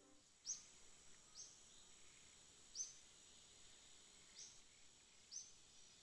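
A bird's short, high chirps, five of them at uneven gaps, over a faint steady high hiss.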